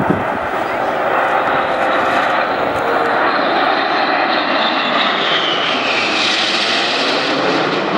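Red Arrows' BAE Hawk T1 jets flying past in formation: a steady jet roar, with a whine that falls in pitch about five to seven seconds in as the jets pass.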